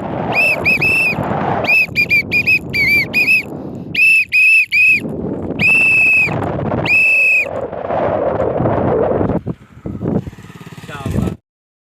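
Whistle notes repeated over a steady rushing background noise, some short and in quick groups of two to four, a few held for most of a second. A faint rustle and clicks come near the end, then all sound cuts off abruptly.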